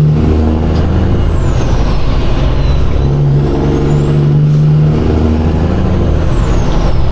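Diesel semi-truck engine running under way, its pitch stepping up and down a few times, with a faint high whine that rises and falls twice.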